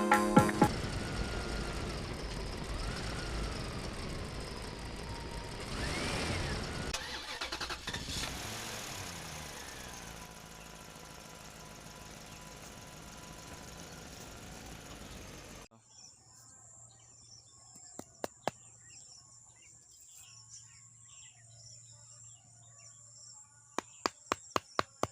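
A vehicle engine sound with a few rising and falling pitch sweeps, fading away and cutting off about two-thirds through. A few isolated clicks follow, then a quick run of sharp ticks, about four a second, near the end.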